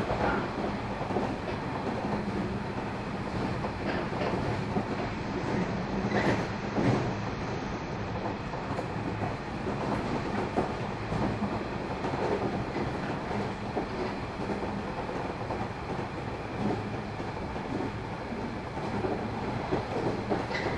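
Interior running sound of a JR 113 series electric multiple unit at speed, heard inside a KuHa 111 driving trailer car. A steady rumble of wheels on rail with a low hum carries on throughout, and a few clicks from rail joints come about six seconds in and again near the end.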